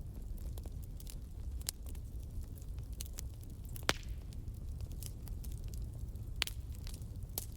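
Wood fire in a fireplace crackling: scattered sharp pops and snaps over a steady low rumble, with the loudest pops about four and six and a half seconds in.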